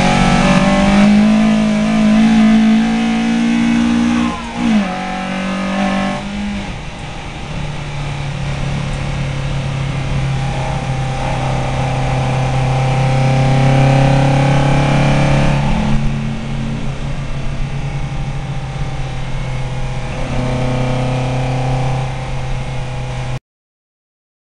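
VW Lupo race car's engine heard from inside the cabin, running at high revs. Its pitch glides down about four to five seconds in, and it then runs lower and steadier. The sound cuts off suddenly near the end.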